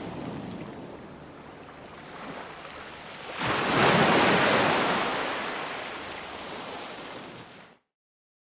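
Ocean surf washing steadily. About three and a half seconds in, a wave breaks louder and then slowly fades back. Near the end the sound cuts off abruptly to dead silence.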